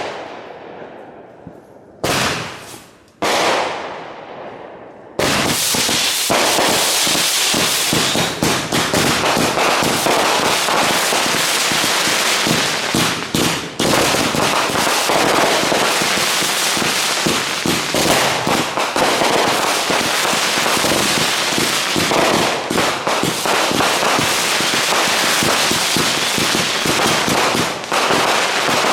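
Consumer fireworks going off: a few separate bangs, each trailing off, then from about five seconds in a dense, unbroken run of rapid crackling reports.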